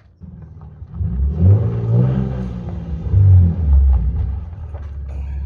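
A car engine accelerating with a low rumble. It swells about a second in and again around the middle, then runs on more steadily.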